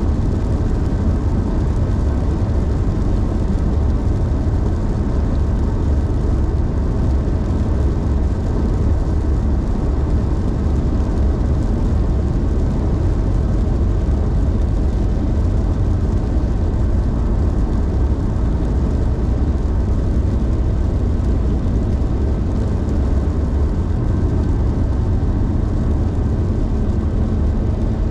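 Car driving steadily at highway speed: a constant low rumble of road and engine noise with no change in pace.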